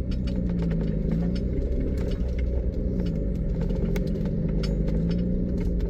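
Nissan 350Z's 3.5-litre V6 running at low speed as the car creeps along, heard from inside the cabin, its pitch rising and falling a little. Scattered light clicks and rattles run over it.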